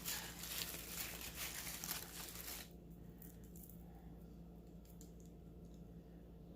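Packaging crinkling and rustling as it is handled, for about the first two and a half seconds, then only a few faint light clicks.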